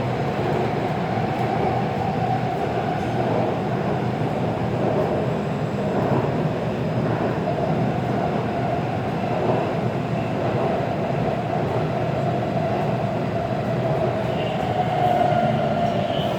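Taipei Metro C341 subway train running steadily, heard from inside the car: an even rumble of wheels and running gear with a constant drone.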